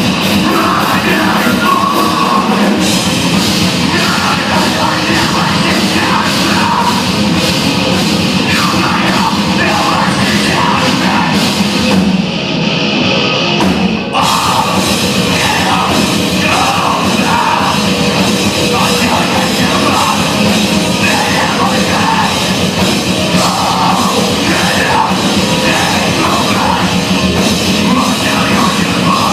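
An amateur rock band playing an original song loudly on drum kit and amplified instruments. About twelve seconds in, the high end drops out for a couple of seconds before the full band comes back in.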